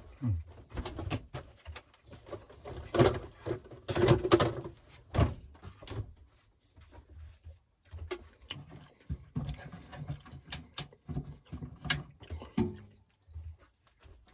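Irregular knocks, clicks and clatter of objects being handled in a small room, loudest around three to five seconds in.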